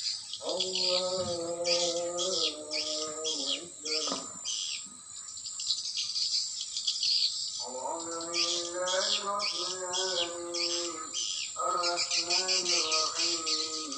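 Swiftlets chirping: rapid, evenly repeated high chirps with three long buzzing trills, the second starting about halfway through.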